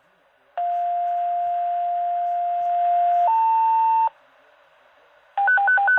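Fire dispatch alert tones heard over a radio scanner. A steady tone is held for nearly three seconds, then steps up to a higher tone for under a second; this is a two-tone sequential station page. After a short gap comes a fast hi-lo warble, alternating about five times a second, that alerts the crews before the dispatch is read.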